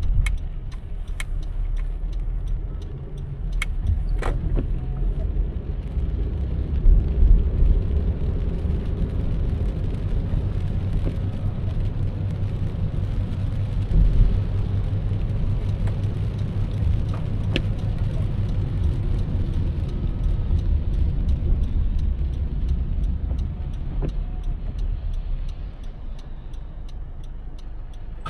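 Car driving along a city road: a steady low rumble of engine and tyres on the road, with a few short sharp clicks or taps scattered through.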